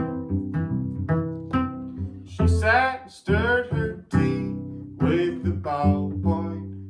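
Instrumental intro of a song: plucked acoustic guitar notes in a steady rhythm, with sliding, bending notes coming in from about two and a half seconds in.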